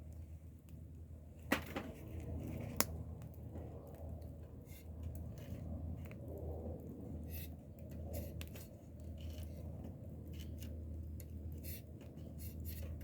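Wood fire crackling, with scattered sharp pops; two louder pops about a second and a half and three seconds in, over a steady low rumble.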